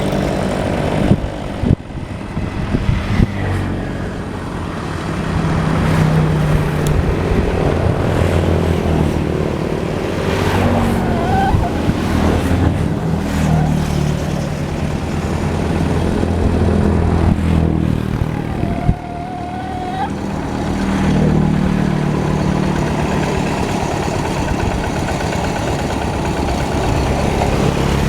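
Hand tractor engine running continuously, its note shifting up and down every few seconds as the load changes.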